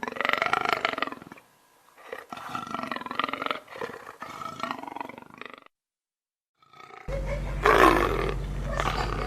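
A big cat roaring in several long pitched calls with short breaks between them. After a brief silence, a different recording starts about seven seconds in, with a steady low hum and one short, loud animal call.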